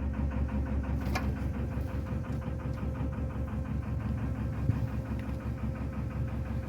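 Narrowboat's diesel engine running steadily under way, a low, evenly pulsing beat with a constant hum. A brief short sound comes about a second in.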